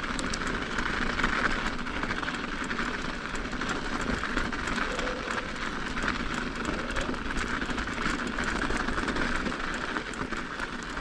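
Mountain bike ridden over an icy, frozen trail: steady tyre rolling noise with a dense patter of small clicks and rattles from the bike.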